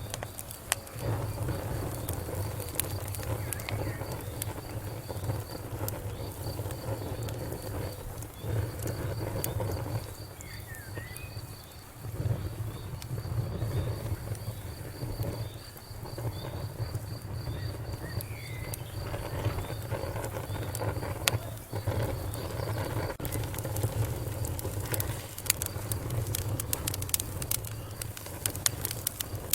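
Wood fire crackling in a fireplace, with irregular sharp pops over a low steady rumble of the flames; the pops grow denser near the end. A high pulsing chirp, about three a second, runs along with it and stops about two thirds of the way in.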